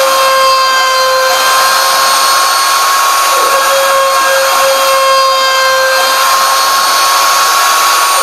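CNC router spindle running at a steady high whine while cutting, over a hiss of cutting noise. The lower tone dips briefly a little past three seconds in.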